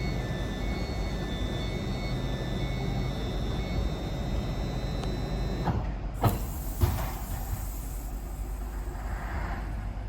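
Train standing with its engine running: a steady low rumble with thin high whine tones, which fade out about six seconds in. Two sharp knocks follow, about a second apart.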